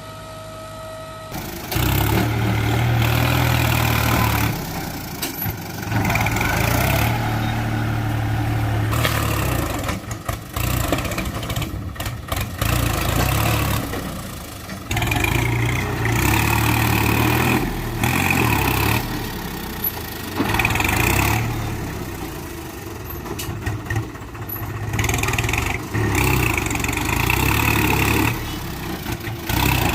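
Tractor engines running, heard as a series of short segments that cut abruptly from one to the next every second or few, the loudness jumping at each cut.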